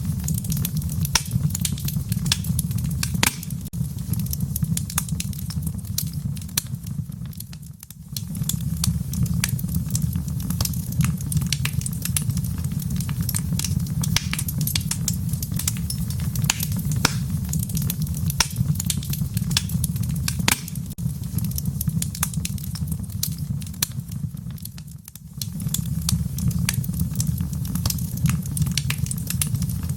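Wood fire crackling in a fireplace: irregular sharp pops and snaps over a steady low rumble of the flames. The rumble briefly fades out and back twice.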